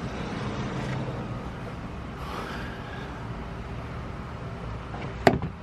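Steady low background hum, then one sharp click near the end as a plastic retaining clip is worked with pliers.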